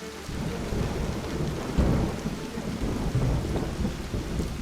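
Thunder rumbling over steady rain. The rumble rolls in at the start and is loudest about two seconds in.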